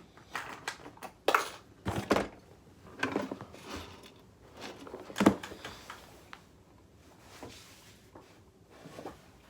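Small hard objects being handled and rummaged through: a run of clicks, knocks and thunks in the first half, the loudest about five seconds in, then only a few faint ticks.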